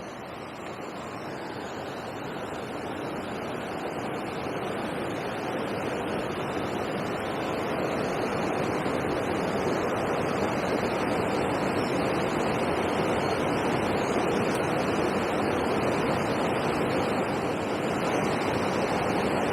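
Steady rush of water pouring over a river weir. It grows louder over the first several seconds, then holds even.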